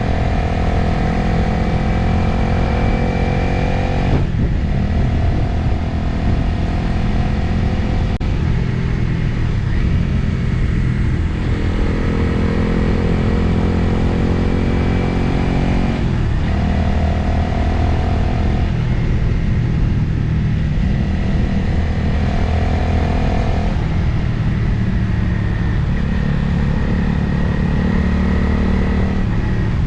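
Motorcycle engine running under way, with wind noise over the rider's microphone. The engine note breaks and steps to a new pitch several times as the speed and load change.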